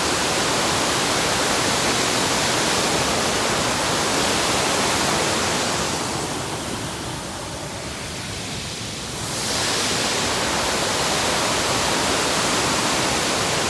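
Waterfall rushing steadily, an even roar of falling water that eases somewhat quieter for about three seconds in the middle before returning.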